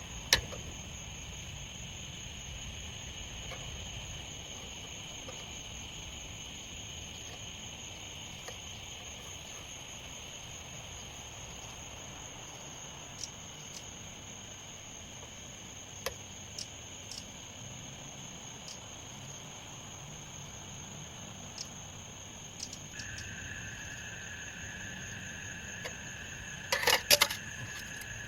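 Insects, crickets or the like, chirring steadily in a high continuous drone, joined by a second, lower steady drone about two-thirds of the way through. Scattered faint ticks, then a quick clatter of sharp clicks near the end.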